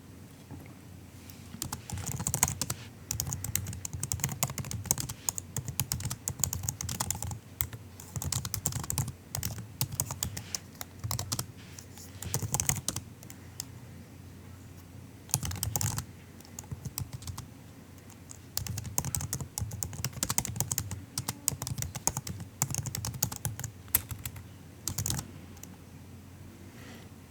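Typing on a MacBook's low-profile laptop keyboard: soft key clicks in fast runs of a few seconds each, broken by short pauses.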